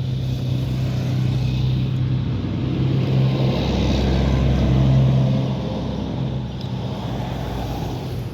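An engine running with a steady low hum, growing louder around the middle and easing off again.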